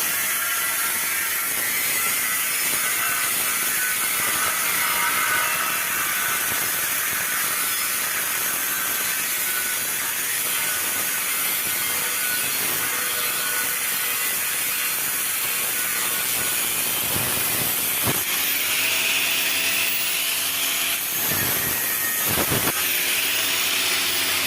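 Arc welding on a mild steel pipe: a steady, even hiss with no break. A few faint gliding tones come in over the last several seconds.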